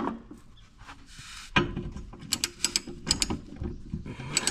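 Hand tools working on a mower deck: a brief scrape, then a run of sharp metallic clicks and taps.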